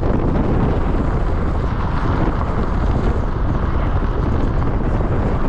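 Steady rumble of a moving vehicle, with road and wind noise buffeting the microphone.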